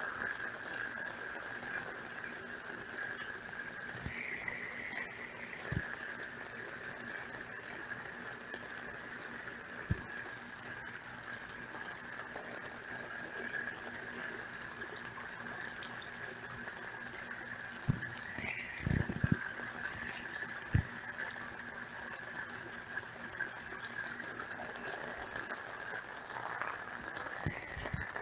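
Heavy rain and runoff water gushing steadily, with a constant high-pitched tone over the rush of water and a few short knocks scattered through.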